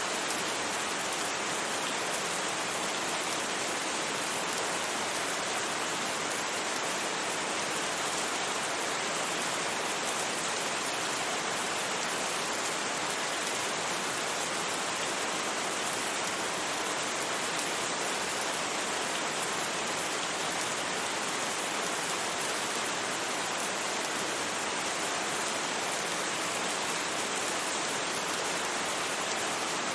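Steady rain falling, an even, unbroken hiss with no thunder or separate drips standing out.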